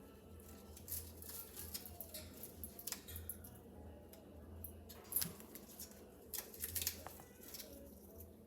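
Irregular clicking, crunching and light rattling of a parrot chewing and pulling at a rope foraging toy strung with bottle caps and cardboard pieces, working to get at the treats inside.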